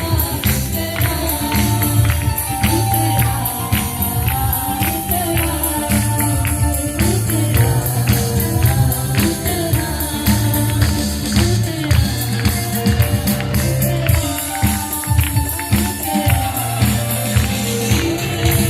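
Choir-led gospel worship song: group singing over a band with strong bass and a steady tambourine beat.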